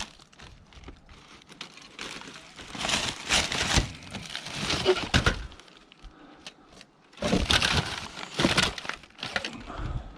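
Scrap electrical appliance being pulled apart by hand: plastic and metal parts cracking and clattering in two bouts of sharp snaps and rattles.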